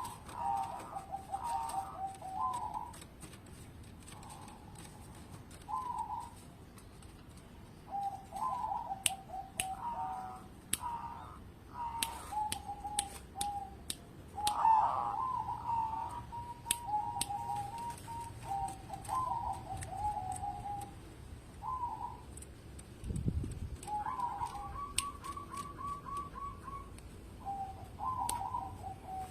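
Zebra dove cooing over and over: phrases of quick, stuttering coo notes, each a second or two long with short pauses between, alongside scattered sharp clicks.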